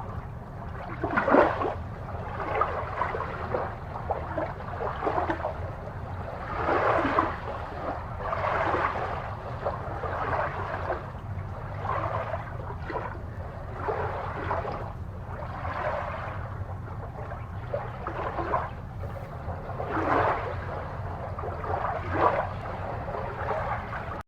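Water gurgling and bubbling in irregular surges, over a steady low hum.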